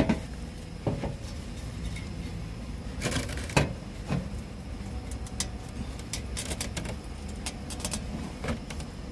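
Scattered metal clicks and scrapes as a crumbling, rusted exhaust flange gasket ring is pried and picked off the exhaust pipe by hand and tool, over a low steady hum.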